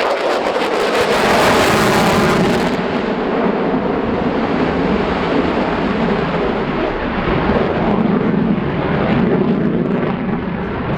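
Jet noise from an F-22 Raptor's twin Pratt & Whitney F119 turbofans during a display flight. A bright, hissing edge drops away after about three seconds, leaving a steady, duller jet rumble.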